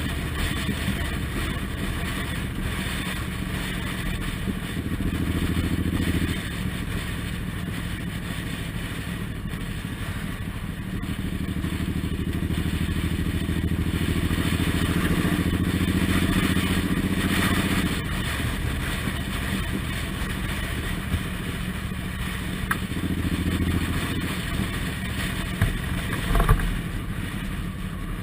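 Suzuki Intruder M1800R's V-twin engine running on the move, swelling louder several times as the throttle opens and easing off between, over a steady rush of road noise. A couple of short knocks near the end.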